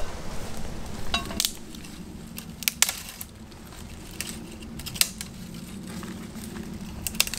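Scattered sharp clicks and light clatter, a handful of separate knocks over several seconds, from handling kit and dry brushwood while laying a small fire.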